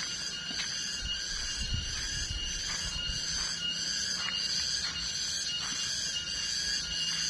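Insect chorus, such as cicadas: a steady high-pitched shrilling that swells and fades in regular pulses, over a thin continuous whine. A few low thumps from handling or footsteps come one to two seconds in.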